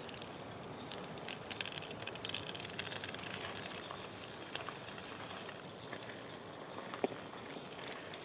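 Peppers and tomatoes beginning to sizzle in an oiled cast-iron pan set in campfire embers: a steady faint hiss with scattered small crackles and one sharper tick about seven seconds in.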